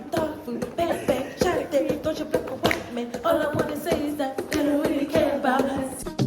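Voices singing unaccompanied, with sharp claps or knocks scattered through the singing.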